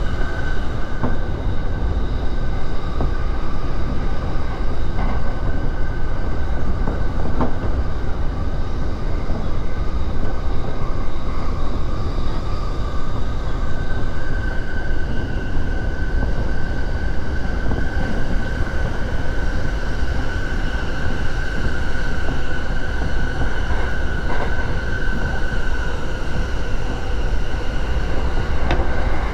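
Joban Line rapid commuter train running at speed, heard from inside the passenger car: a steady low rumble of wheels on rail, with a high steady whine that grows louder about halfway through and eases off near the end.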